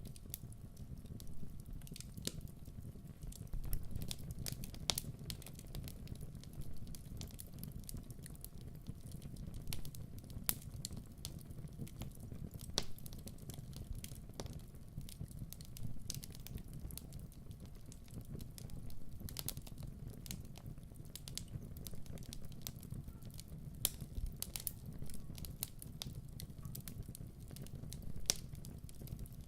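Wood fire crackling: a steady low rumble of flames with frequent sharp snaps and pops scattered irregularly throughout.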